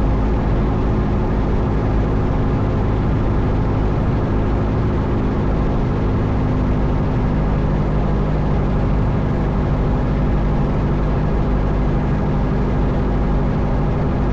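Cessna 172 Skyhawk's four-cylinder Lycoming engine and propeller running steadily, heard as the constant drone of the cabin on final approach under partial power.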